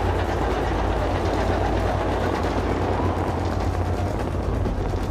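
Fireworks finale heard as a dense barrage of shell bursts merging into a steady, loud rumble, with no single bang standing out.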